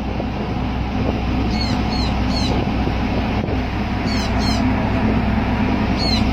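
A bird gives short high chirps in small groups, about six in all, over a steady low rumble.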